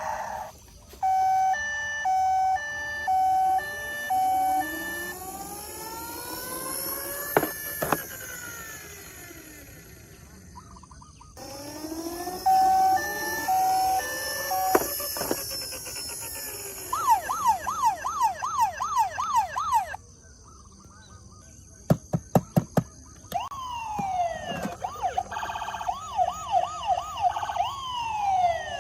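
Electronic sirens of toy emergency vehicles running through several patterns: a two-tone hi-lo beep, slow rising and falling wails, and a fast yelp about two-thirds of the way through. A short run of clicks follows the yelp, and another siren pattern sounds near the end.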